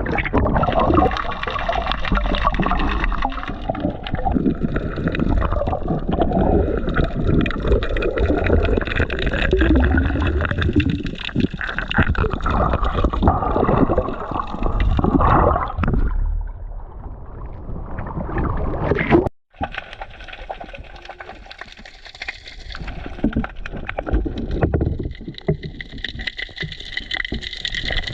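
Water gurgling and sloshing around a diver's camera, with many small crackles. It cuts out for an instant about nineteen seconds in, then goes on a little quieter.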